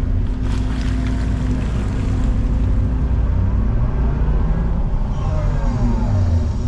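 Excavator's diesel engine running under load, its pitch rising and falling as the hydraulics work the arm and bucket. There is a brief clatter about half a second in.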